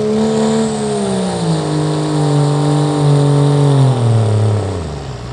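Pro street diesel pickup truck engine running hard at a pull, its pitch sagging steadily over several seconds as the revs drop. Near the end it falls away and gives a short rising rev.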